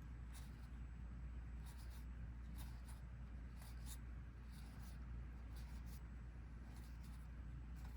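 Trading cards being dealt one by one onto a table: short, soft slides and flicks about once or twice a second, over a low steady hum.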